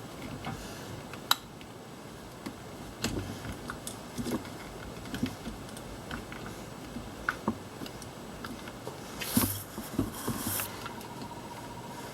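Hands working on parts in a car's engine bay: scattered small clicks, taps and knocks, with a couple of louder rustling scrapes about nine and ten and a half seconds in.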